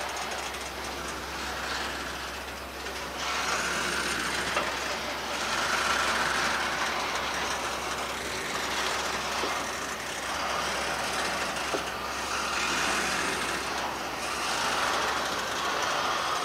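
Container wagons of a freight train rolling past, steel wheels running on the rails. The noise swells and eases every few seconds, with a few sharp clicks.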